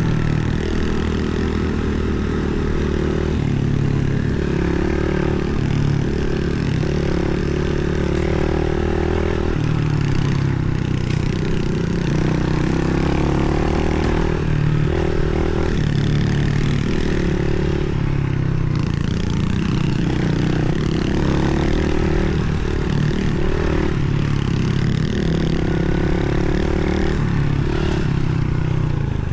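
Pit bike engine running while being ridden, its pitch stepping up and down with the throttle.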